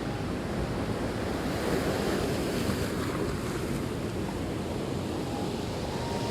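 Storm-surge waves breaking and churning on a rocky shore, with strong gusty wind buffeting the microphone.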